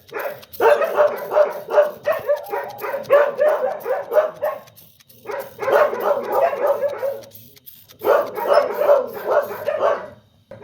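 A dog yelping and barking in quick runs of short, closely spaced cries, broken by three brief pauses.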